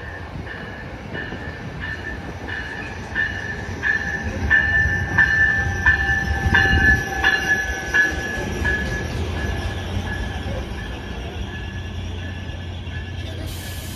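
Freight train rolling slowly past: a rumble of cars and wheels that builds to its loudest about halfway through, with a steady high squeal and an even click about one and a half times a second. A hiss starts right at the end.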